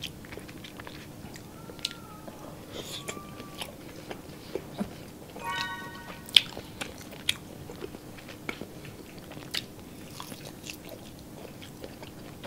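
Close-miked biting and chewing of tocino, sweet cured pork with fat: soft wet chewing with scattered sharp smacks and clicks, and a short pitched sound just before the middle.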